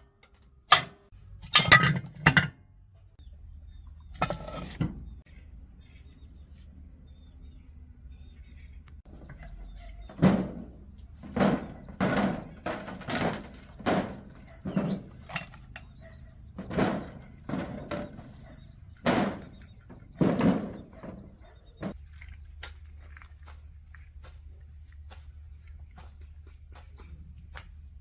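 A dozen or so irregular knocks and clunks, like hard objects being set down or struck, which stop about two-thirds of the way through. Behind them runs a steady, high insect chirring.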